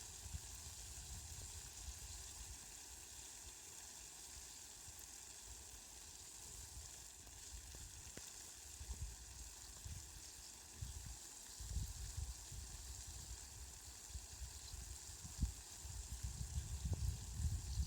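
Steady rain falling, heard as an even hiss, with irregular low rumbles underneath that grow stronger near the end.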